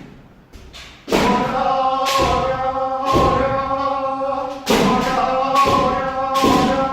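Group of kendo students shouting drawn-out kiai together, many voices held at once, starting about a second in. Sharp thuds of strikes and stamping feet come roughly once a second.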